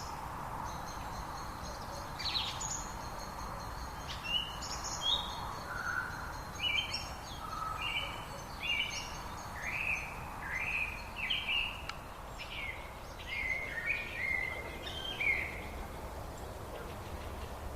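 Several birds singing: a busy stream of short chirps and whistles that keeps going throughout, over a steady background hiss.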